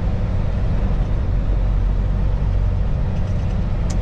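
Kenworth semi truck's diesel engine running steadily while driving, a low drone heard from inside the cab. A single faint click near the end.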